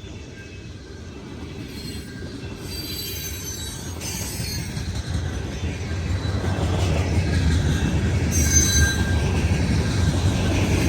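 Train approaching and rolling closer, its low rumble growing steadily louder, with steel wheels squealing on the rails in short high-pitched spells, about a third of the way in and again near the end.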